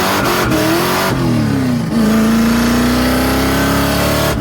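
Car engine revving: the pitch rises briefly, drops away after about a second, then holds a loud, slowly climbing note.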